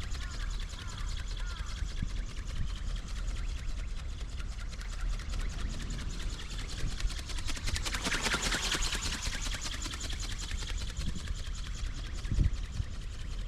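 Small electric motor and spur-gear drive of a radio-controlled pterosaur ornithopter buzzing in flight as it flaps its wings. It makes a fast, dense rattle that swells about eight seconds in as it passes close, then eases back, over a low rumble of wind on the microphone.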